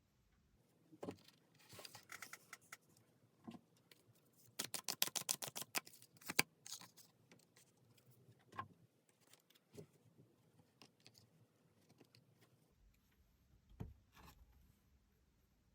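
Tarot cards being handled: scattered soft taps and rustles, with a quick run of card clicks about five seconds in, as when a deck is shuffled.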